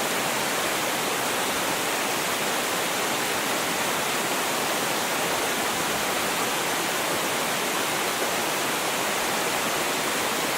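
Small mountain waterfall, more a cascading stream than a tall fall, with water rushing steadily and evenly.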